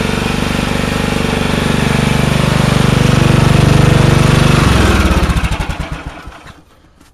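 Small snowblower engine on a race tractor with a welded exhaust and motorbike pipe, running steadily. About four and a half seconds in it is shut off and chugs slower and slower to a stop within about two seconds.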